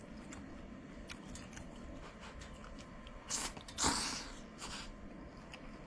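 A person eating stir-fried rice noodles close to the microphone: soft chewing and small mouth clicks, with two short noisy bursts just past the middle, the second louder.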